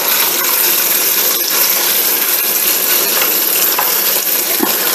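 Chicken pieces sizzling steadily in hot vegetable oil in a pot, with a few light clinks of a stirring utensil against the pot.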